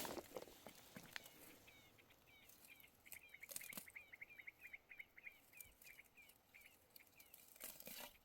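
Faint bird song: a long run of short chirps, about four a second, starting about a second in. A few faint rustles or knocks come near the start and again near the end.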